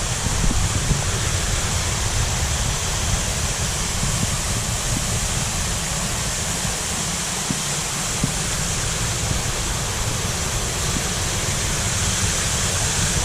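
Waterfall rushing steadily, with a low rumble underneath and a few faint knocks.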